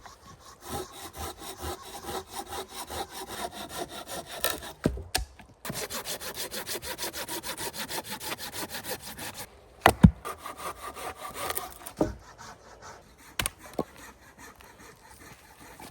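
Hand saw cutting through wood in quick, regular back-and-forth strokes, in two long runs with a short pause between them. About ten seconds in there is a single loud knock, then a few more strokes and scattered clicks.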